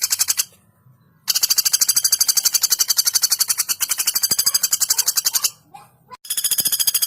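Female pelatuk bawang woodpecker giving long, very fast rattling trills of evenly repeated high notes. A short pause comes about half a second in, and another near the end.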